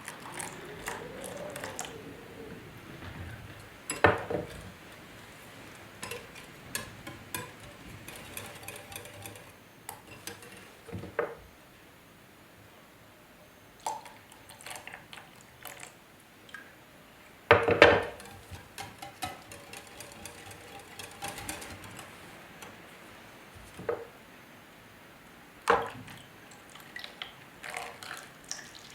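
Dishes and kitchen utensils being handled: scattered clinks and knocks, some of them ringing briefly, with the loudest clatter a little past halfway.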